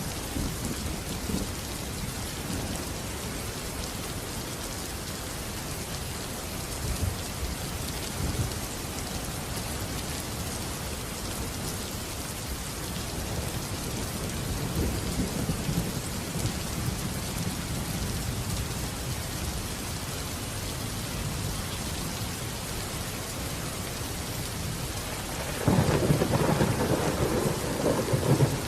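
Steady rainfall hissing, with thunder rumbling low now and then. A louder, closer thunderclap breaks in near the end and rumbles for about three seconds.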